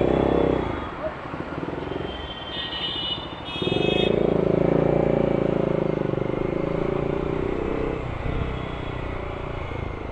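Motorcycle engine pulling away under throttle: it grows loud about a third of the way in, runs strongly for about four seconds, then eases off.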